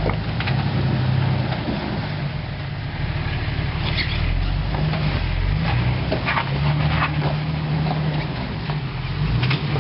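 Off-road 4x4's engine running at low revs under load as the vehicle crawls over rock, its note shifting a little. A few short knocks are heard about four seconds in, again around six to seven seconds, and just before the end.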